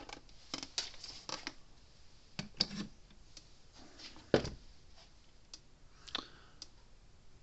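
Small clicks and knocks of tester leads being handled and clipped on, with one heavier thump about four seconds in, then the Zareba 50-mile fence charger ticking evenly about once a second as it pulses, the new transformer firing into the tester.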